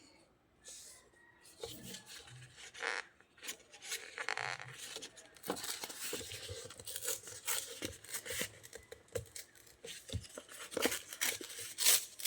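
Paper being handled and torn: irregular scratchy rustling and tearing strokes, some short and some drawn out.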